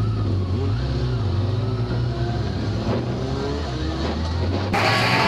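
Motorcycle engine running at road speed under wind rush, its pitch rising and stepping as it pulls through the revs. Guitar music cuts in near the end.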